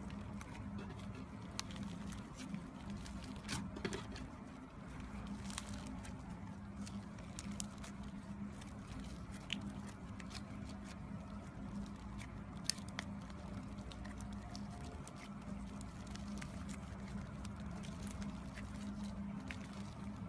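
Slime being squished and worked by hand, with many small sticky pops and crackles over a low steady hum.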